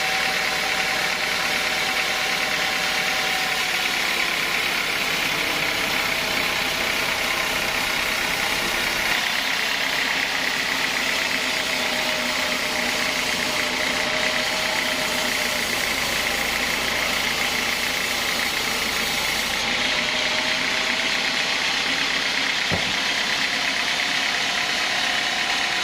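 Sawmill machinery running steadily, a continuous motor and blade noise with a whine whose pitch sags slightly now and then, and a single sharp click near the end.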